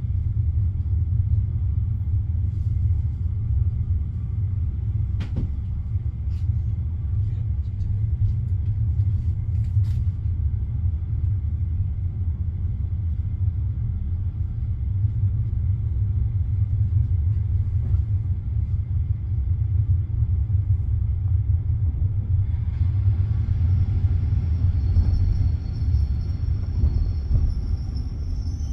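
Steady low rumble of a passenger train carriage heard from inside, with a few faint clicks. Near the end a thin, high whine joins in.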